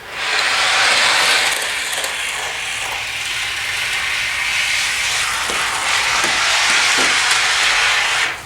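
Model railroad box car rolling freely along the track, its metal wheels on the rails making a steady hiss, with a few light clicks in the second half as it crosses the rail joints at the bridge gap.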